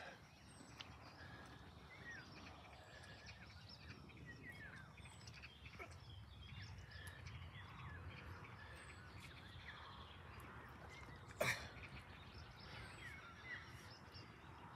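Faint small birds chirping here and there over a low, steady outdoor background noise, with one short sharp sound about three quarters of the way through.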